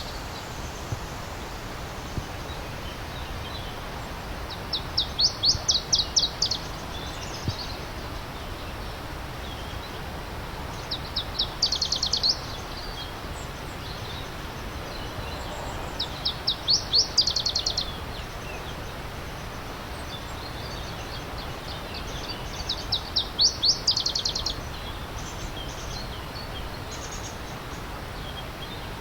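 A songbird repeating the same quick run of high, rapidly repeated notes four times, about every six seconds, over a steady rush of stream water.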